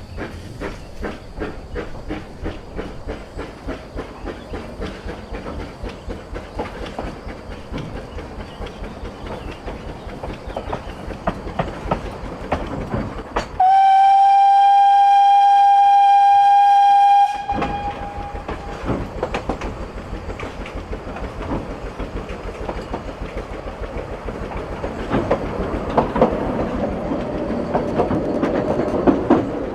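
Vale of Rheidol narrow-gauge steam train on the move, with a steady rhythm of chuffing and clicking over the rail joints. About fourteen seconds in, the locomotive's steam whistle gives one long, steady blast of about three and a half seconds that cuts off suddenly; the running grows louder near the end.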